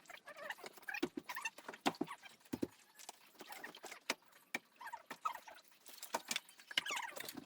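Irregular hollow knocks and clacks, several a second, of wood being handled and knocked together.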